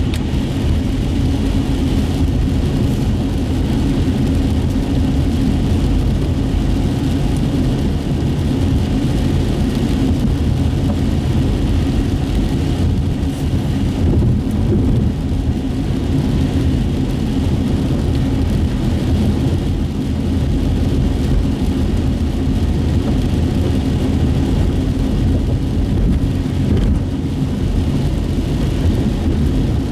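Steady road and engine noise of a car driving on wet city streets, heard from inside the cabin, with the tyres running over wet pavement.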